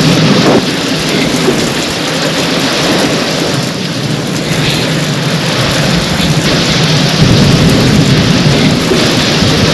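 Heavy rain pouring steadily, with low thunder rumbling underneath that swells in the last few seconds.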